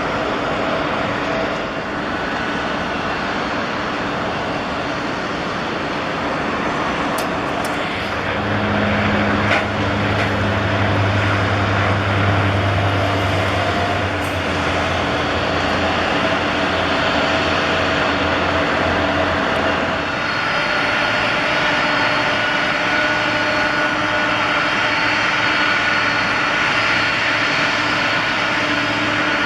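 Jet airliner engines running steadily: a broad rush with a steady whine on top. A low hum joins about eight seconds in. The sound changes abruptly about twenty seconds in, then carries on steady.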